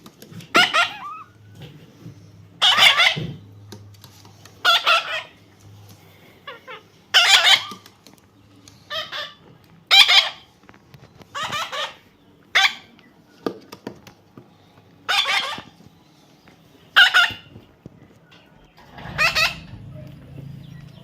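Baby parrot giving harsh, repeated calls, about eleven of them, one every second or two.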